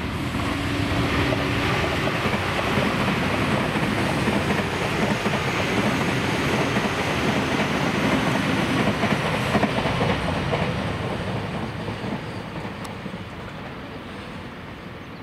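Electric train passing, the noise of its wheels on the rails building up, holding for several seconds, then fading away.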